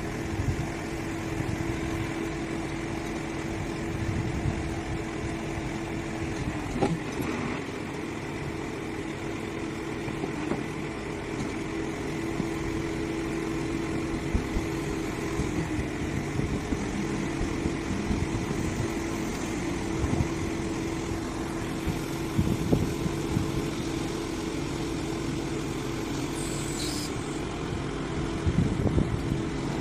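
Engine of a truck-mounted Cormach 71000 E7 crane running steadily, with a steady hum and scattered knocks and clanks.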